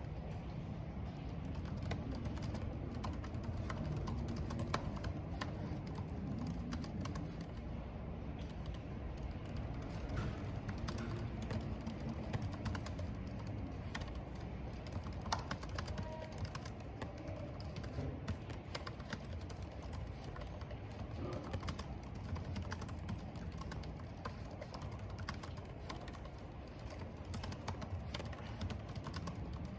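Computer keyboard typing, irregular key clicks continuing throughout, over a steady low rush of wind and rain.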